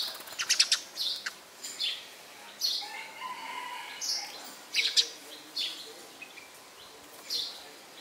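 Birds chirping, with short high calls repeating roughly every half second to a second. Two quick runs of sharp clicks come through, about half a second in and again near five seconds.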